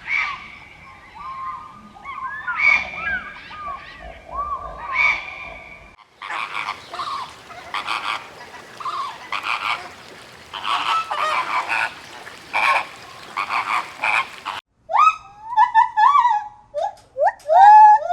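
Farm poultry calling across three short clips. First come scattered pitched calls, then a dense, overlapping flock chorus, then a run of clear separate calls that rise and fall in pitch.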